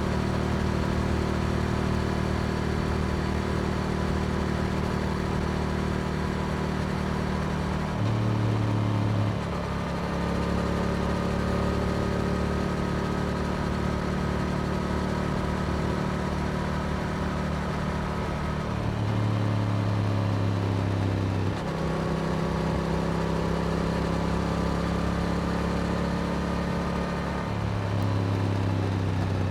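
Yamaha R7's 689 cc parallel-twin engine running through an Akrapovic exhaust while riding at steady speed. The engine note changes briefly three times, about 8, 19 and 28 seconds in.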